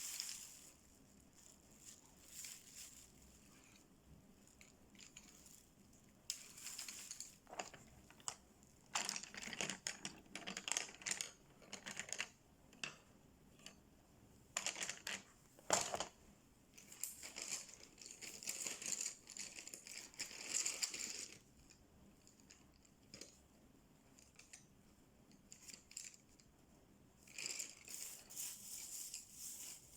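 Coloring strokes scratching on a paper page of a coloring book, in irregular runs of quick back-and-forth strokes with pauses between, and one sharp tick about halfway through.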